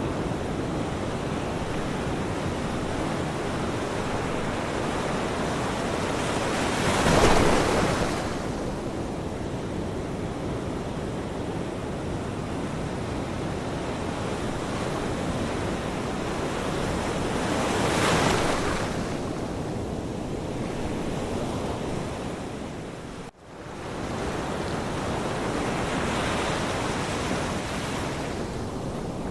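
Ocean surf: a steady wash of waves, with two waves swelling and breaking about 7 and 18 seconds in. The sound drops out abruptly for a moment about three-quarters of the way through, then comes back.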